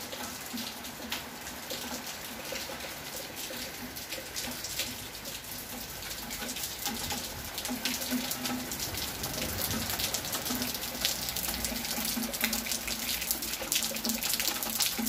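Steady rain falling, a dense patter of drops with water streaming, growing a little louder in the second half.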